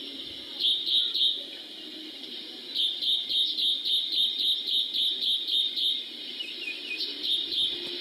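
A bird calling in rapid series of short, high notes, about three a second, in three bouts with the longest in the middle. A faint steady low hum runs underneath.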